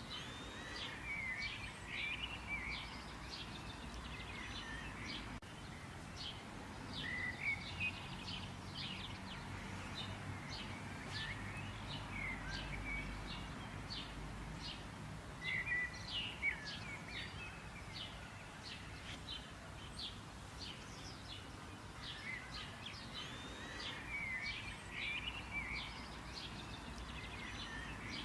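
Birds chirping and calling, many short quick chirps over a steady faint background hiss, with a few louder chirps now and then.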